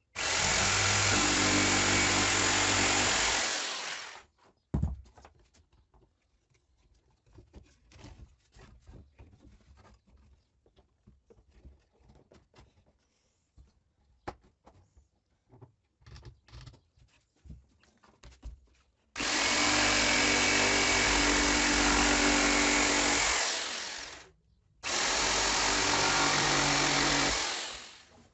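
A power tool runs in three bursts of about four to five seconds each, every burst tailing off at its end. Between the first and second bursts there are light scattered clicks and knocks of handling.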